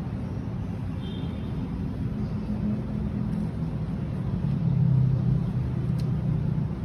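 A steady low motor hum with a shifting pitch, swelling about five seconds in, with a faint click near the end.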